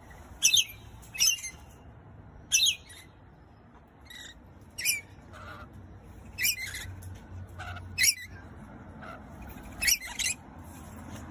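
A pet bird giving short, sharp high-pitched squawks, about eight in all, spaced a second or two apart.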